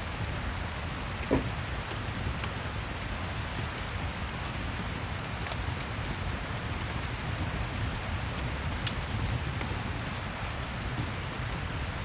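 Steady rain with a low rumble underneath, and scattered faint crackles from a fireplace. One brief, louder pop comes about a second in.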